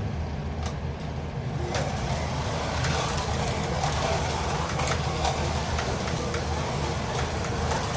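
1/32 Carrera Digital 132 slot cars with 21.5K Piranha motors running laps on the track: a steady whir of motors and tyres on the plastic track, with occasional short clicks.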